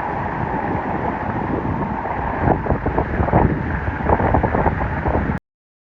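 Steady rushing noise of traffic and water on a flooded road in heavy rain, with wind buffeting the microphone in uneven gusts from about halfway through. The sound cuts off suddenly near the end.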